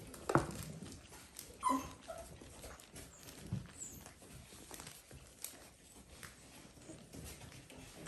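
Dalmatian puppies playing and scuffling, with scattered small knocks and one short, high puppy squeak a couple of seconds in.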